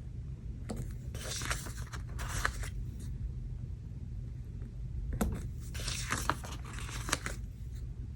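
Paper sticker sheets being handled, with stickers peeled from their backing: two spells of crinkling and tearing, about a second in and again about five seconds in, with a few small clicks. A steady low rumble runs underneath.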